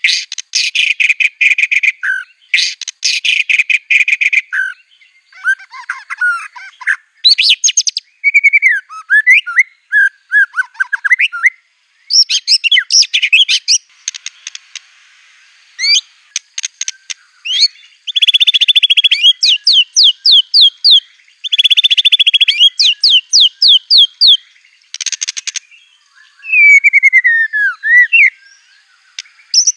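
White-rumped shama singing a loud, varied song: dense rapid-fire trills and rattles alternating with series of quick rising whistled notes, phrases broken by short pauses, with phrases mimicked from other songbirds such as canary.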